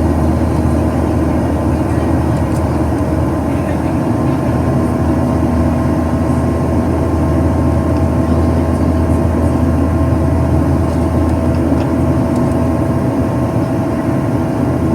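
Steady cabin drone of a Boeing 737-800 in its climb, the CFM56-7B turbofans running at climb power, heard from inside the passenger cabin: a strong low rumble with a few steady hum tones above it.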